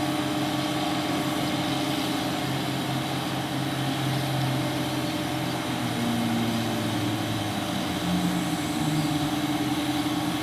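Heavy engine of a truck or construction machine running steadily, its pitch shifting a little about two-thirds of the way through.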